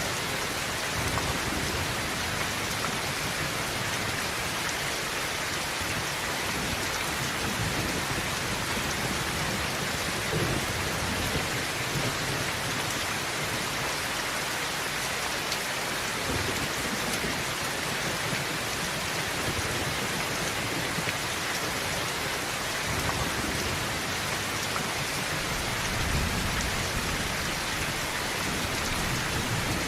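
Heavy rain falling steadily on a tin roof, with low thunder rumbling a few times.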